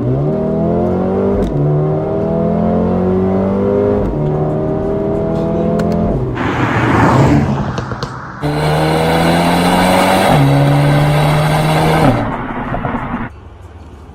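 Mercedes-AMG CLA 35's turbocharged 2.0-litre four-cylinder accelerating hard through the gears: the pitch climbs and drops at each quick upshift, three times in the first six seconds. A rushing, noisy stretch follows, then a second pull with one more upshift, easing off near the end.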